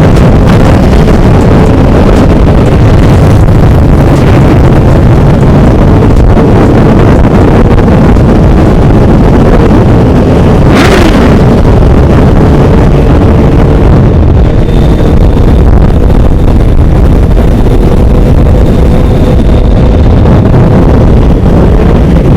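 Motorcycle and dirt bike engines running under heavy wind noise on the microphone, loud and steady, with a brief hissing burst about eleven seconds in.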